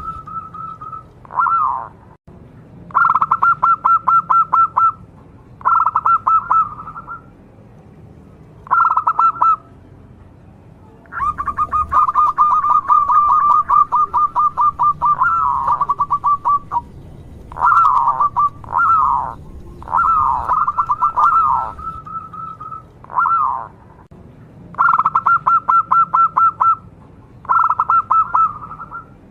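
Local zebra dove (perkutut) singing: repeated bouts of rapid, pulsed cooing, most about one to two seconds long and one longer run of about five seconds in the middle.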